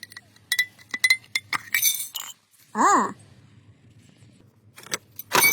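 A run of quick, light clinks with a short ringing, as of a small hard container and its lid or a tool being handled. About two seconds in there is a brief scraping hiss, and a few more clinks come near the end.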